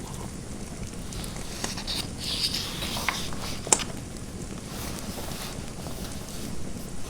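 Fireplace fire crackling: scattered sharp pops over a steady low rumble, the sharpest pop a little under four seconds in. A brief scratchy hiss comes about two to three seconds in.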